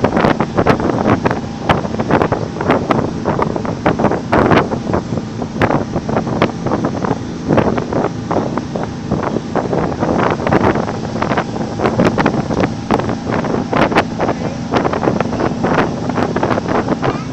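Wind buffeting the microphone in irregular gusts, over the steady low drone of a roll-on/roll-off ferry under way.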